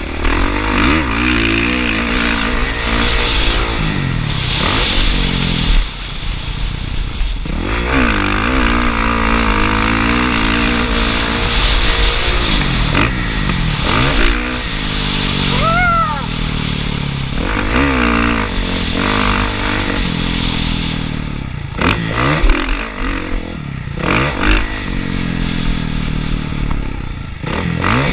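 Motocross bike engine revving hard and dropping off again and again as the rider accelerates, shifts and chops the throttle. A brief arched whine comes through about sixteen seconds in.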